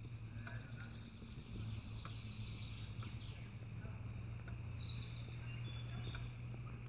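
Faint steady low hum, with a few short bird chirps about three and five seconds in.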